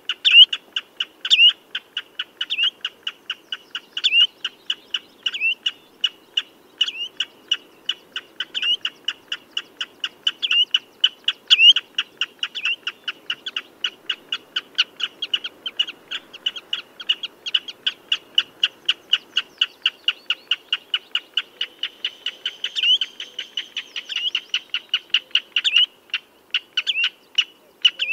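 Common redshank calling: a rapid, steady stream of short piping notes, several a second, with a louder downslurred note about every second and a half.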